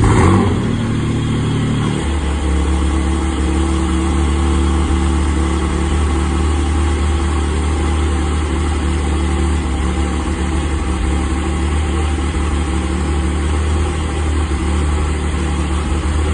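Porsche 718 Cayman GTS 4.0's 4.0-litre flat-six cold-starting through its exhaust. It catches suddenly with a brief flare, then after about two seconds settles into a steady cold idle.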